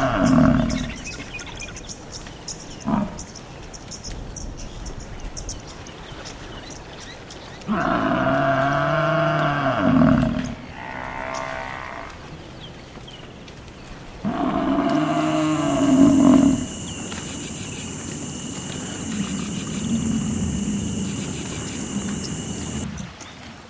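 American bison bellowing: long, deep calls, with one ending just after the start and two more that follow several seconds apart. A steady high whine comes in during the last third.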